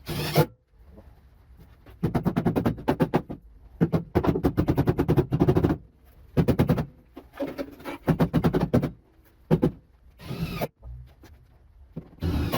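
Power driver running in four short bursts with a rapid pulsing clatter, driving screws through a metal patch panel; a few short knocks around it.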